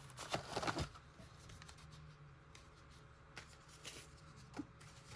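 Paper rustling and light taps as journal pages and paper pieces are handled, busiest in the first second, then only a few faint ticks.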